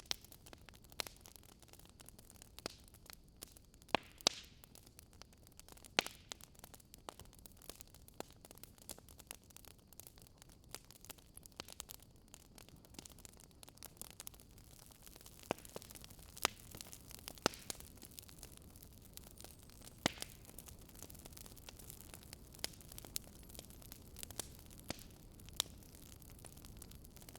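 Wood fire crackling in a fireplace: irregular sharp pops and snaps, a few louder ones among many small ticks, over a faint steady hiss.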